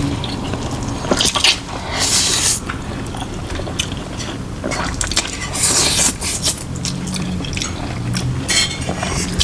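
Close-up eating sounds of noodles being slurped, with utensils clinking against the plate.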